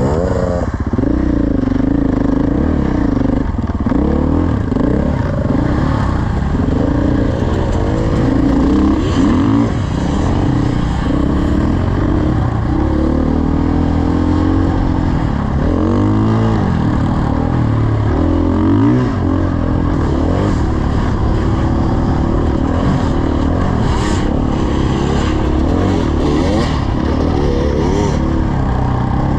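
Dirt bike engine running under way. Its pitch rises and falls repeatedly as the throttle opens and closes through the gears, with a few short clattering ticks near the end.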